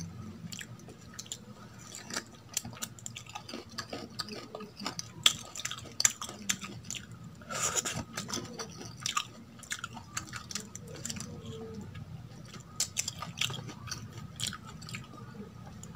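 Close-up chewing and wet mouth sounds of someone eating idli and sambar with the fingers, including biting and sucking on a piece of drumstick from the sambar. There are many short smacks and clicks, and a longer, louder wet sound about halfway through.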